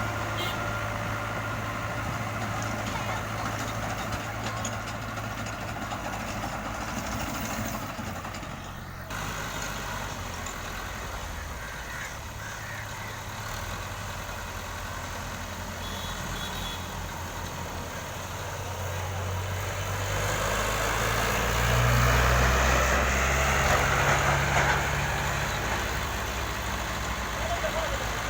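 FIAT 640 tractor's diesel engine running steadily, growing louder for a few seconds about two-thirds of the way through, then settling back.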